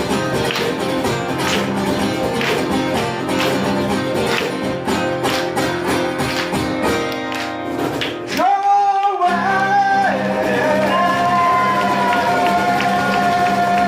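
A live band playing the end of a song, with strummed guitar and singing. About eight seconds in the band drops away for a moment, then a long held final note is sung over a sustained chord.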